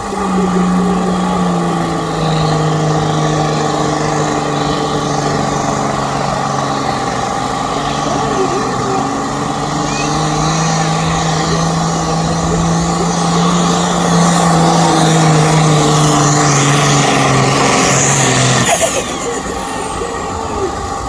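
A pulling tractor's engine running hard under load as it drags the weight sledge. Its pitch drops at the start, climbs again midway and sags before the engine note stops abruptly near the end.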